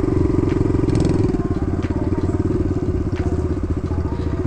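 Kawasaki KLX110 dirt bike's small single-cylinder four-stroke engine running steadily at low revs.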